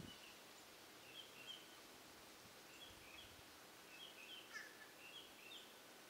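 Faint bird chirps, short high notes in small clusters every second or so, with one quick down-slurred call about halfway through, over a quiet background.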